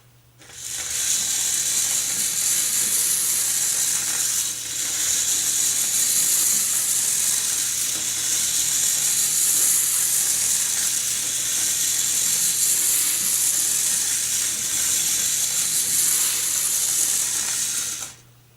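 Battery-and-magnet 'electric train' running through a bare copper wire coil, making a steady high scratchy rattle as the magnets rub along the wire, with a brief drop about four and a half seconds in.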